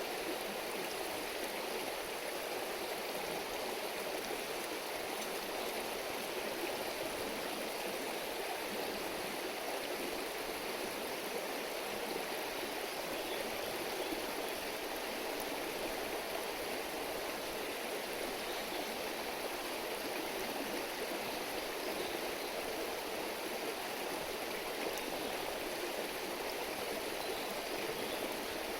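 A river babbling with a steady, even rush of flowing water.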